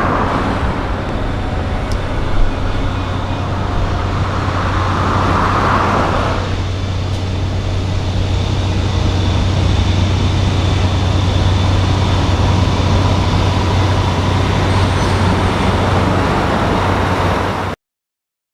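Diesel semi-truck engines running as trucks pull out, a steady low drone with a sharp knock about two and a half seconds in. The sound cuts off abruptly near the end.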